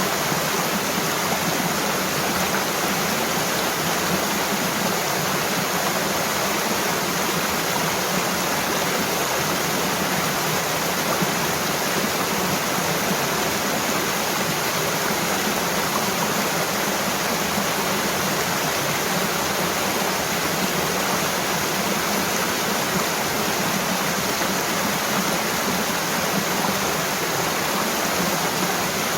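Mountain waterfall with water rushing and splashing steadily, a continuous even roar that does not change.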